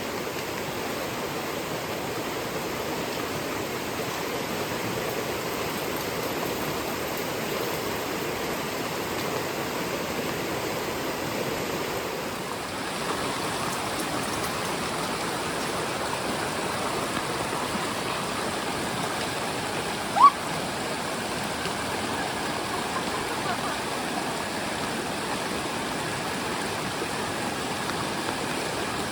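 Rushing river water, a steady even rush from a stream running high after days of rain. About two-thirds of the way through, a single short sharp blip cuts through it.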